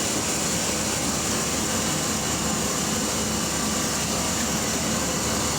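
Steady, even noise of vehicle engines running, with a constant hiss and no changes.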